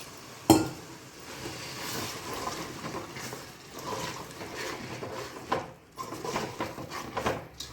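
Utensils clattering in a cooking pot as a masala is stirred: one sharp metal clank about half a second in, then irregular scraping and knocking.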